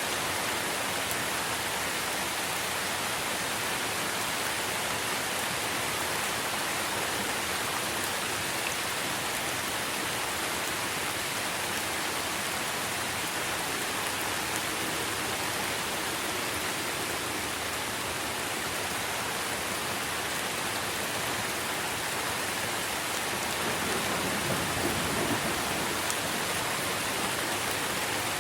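Steady, dense rain falling on tree foliage, a continuous even hiss of drops. A brief low rumble swells about three-quarters of the way through.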